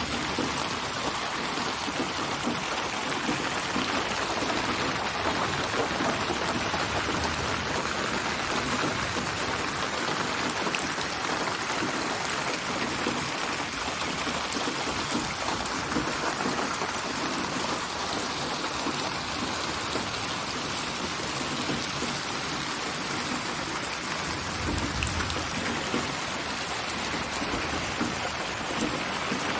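Steady rain falling, an even, dense patter of drops, with a brief low rumble about twenty-five seconds in.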